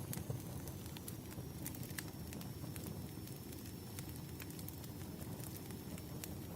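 Wood fire crackling: irregular sharp snaps and pops of burning logs over a steady low rumble.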